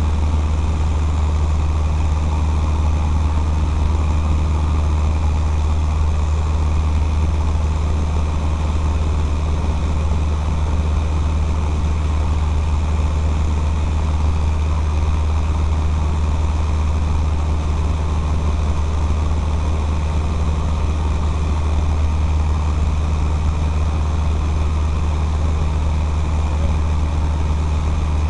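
Cessna 152's four-cylinder Lycoming O-235 engine and propeller running steadily: a deep, even drone that holds the same pitch and level throughout.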